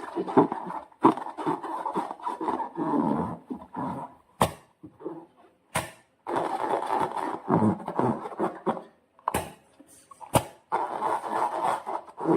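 Slime being squished and worked by hand: wet, irregular squelching with several sharp sticky pops.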